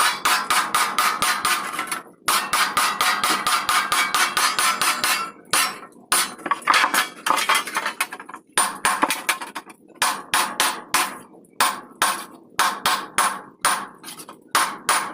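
Hammer blows in quick runs of several strikes a second, with brief pauses between runs.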